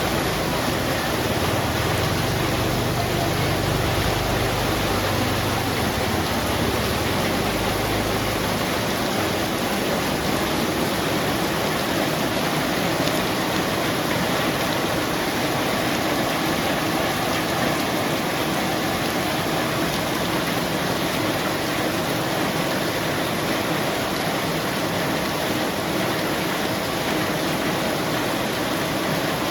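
Heavy rain falling in a steady, dense hiss. A low rumble runs underneath for roughly the first eight seconds, then fades out.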